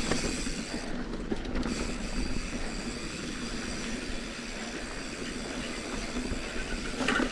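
Mountain bike rolling along a dirt trail: a steady rush of tyre noise and rattling, with the ratcheting clicks of the rear hub's freehub.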